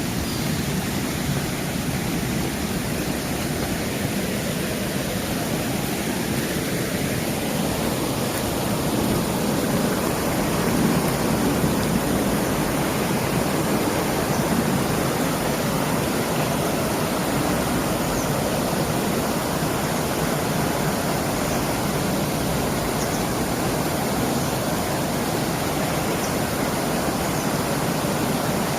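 Mountain valley stream after rain, rushing water running steadily; the rush grows a little fuller and louder about eight seconds in.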